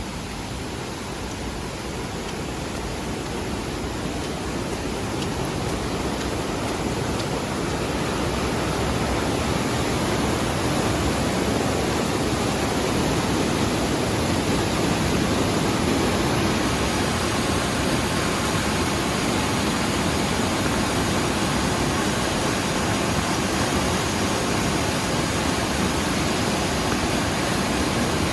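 Mountain stream running high and fast after rain, its water rushing steadily. It grows louder over the first ten seconds or so, then holds steady.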